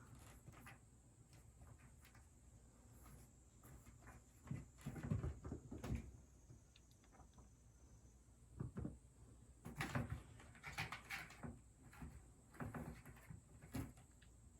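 Kitten at play: scattered soft thumps and scuffles, bunched around five seconds in and again around ten seconds in.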